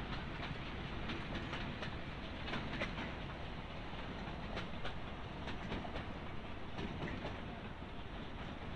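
A narrow-gauge train of railway carriages rolling past, its wheels clicking irregularly over the rail joints above a steady rumble.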